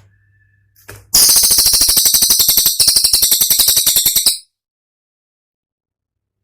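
Cililin songbird giving a rapid, very high-pitched rattling trill, about a dozen sharp notes a second for roughly three seconds. This is the kind of burst bird keepers call 'tembakan'. It starts about a second in and cuts off abruptly.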